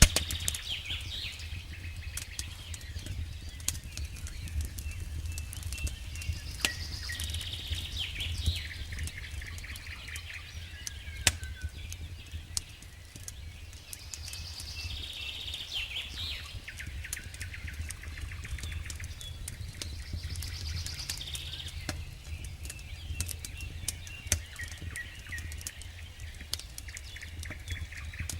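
Campfire burning logs: irregular sharp crackles and pops over a low, steady rumble. High chirping calls come and go about every seven seconds.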